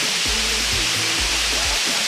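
Waterfall rushing steadily, with background music carrying a repeating bass line and a melody over it.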